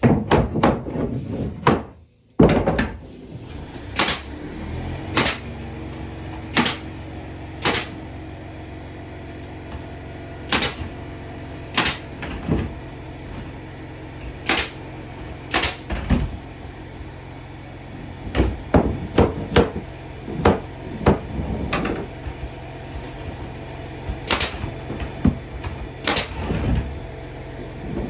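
Sharp wooden knocks and taps at irregular intervals during interior woodwork, with a quick run of them about two-thirds of the way through, over a steady low hum.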